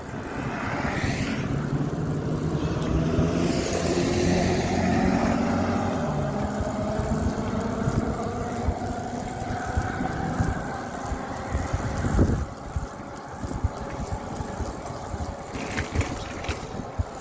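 A motor vehicle's engine going by, growing louder over the first few seconds and then fading as its pitch slides slightly down. A sharp thump about twelve seconds in.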